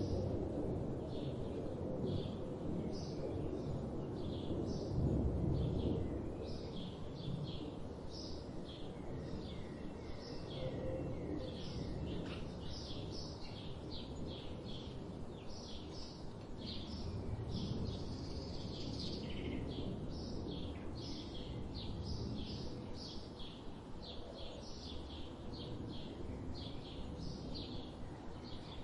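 Wild songbirds singing and chirping in quick, overlapping short notes, over a steady low rumble of background noise that is strongest in the first six seconds.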